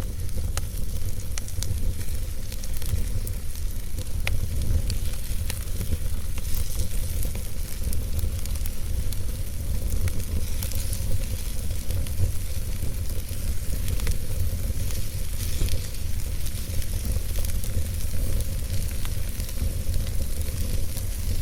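Wood logs burning in a fireplace: a steady hiss of flame over a low rumble, with scattered sharp crackles and pops.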